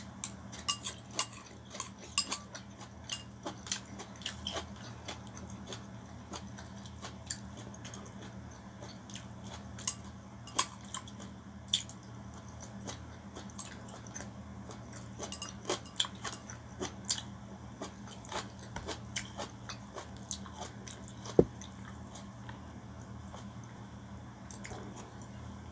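Close-up mouth sounds of a person eating pancit bihon rice noodles: irregular wet smacks and clicks of chewing and slurping, busiest in the first half. One sharper click comes about 21 seconds in, and a low steady hum runs underneath.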